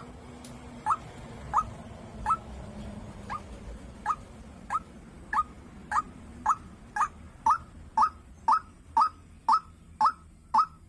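White-breasted waterhen (dahuk) calling: a loud short note repeated about twice a second, thinning briefly a few seconds in, then coming faster towards the end.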